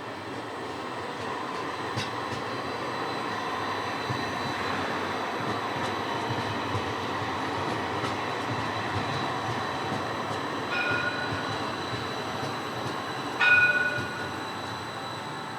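A tram running on its rails with a steady rolling noise. A short ringing tone sounds twice, the second louder.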